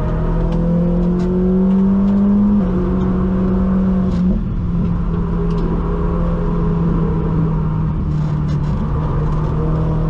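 MK1 Audi TT's turbocharged engine pulling under hard acceleration, its note rising for about two and a half seconds, dropping sharply at an upshift, then holding fairly steady over a constant rush of road noise.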